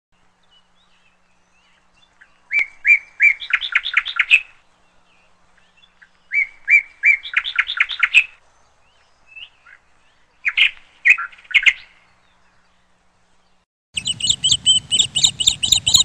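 A small songbird singing three phrases a few seconds apart, each a few separate notes followed by a quick run of notes. Near the end a busier, higher run of chirping starts abruptly, with a low rumble under it.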